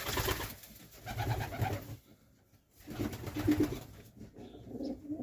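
Serbian Highflyer pigeons cooing in low, pulsed coos, in two bouts about a second in and about three seconds in. A brief burst of noise comes at the very start.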